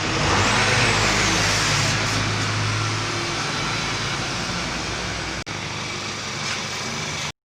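Audi's turbocharged engine running with its original exhaust pipe welded back on. It swells in level about half a second in and then settles to a steady run, with a momentary dropout a little after five seconds, and the sound cuts off abruptly near the end.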